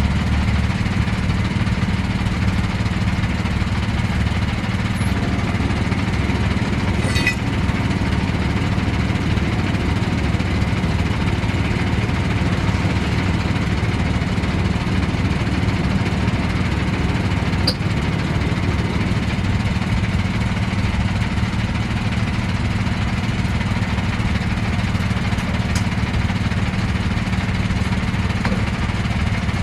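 An engine running steadily at idle with a fast, even low pulse.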